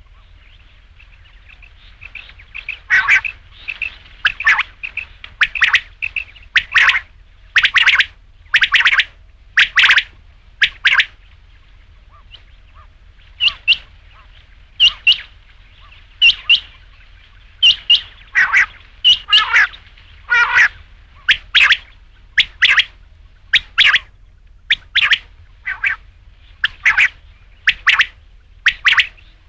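Quail calling over and over: short, sharp calls roughly once a second, some in quick pairs, with a fainter continuous chirping beneath them in the first half.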